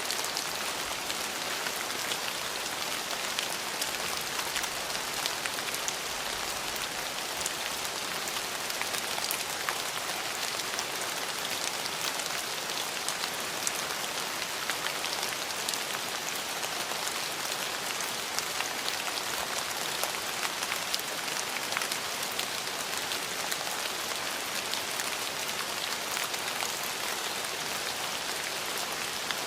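Steady rain falling on a hard surface, an even hiss with many fine drop ticks throughout.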